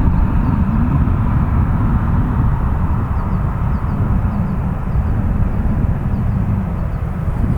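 Boeing 737-800 with CFM56 turbofans taxiing at idle thrust: a steady jet rumble with a faint whine.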